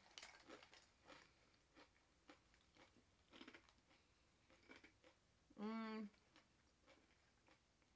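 Faint close-up chewing, with small scattered crunches and mouth clicks. About halfway through comes a short hummed "mm" from a voice.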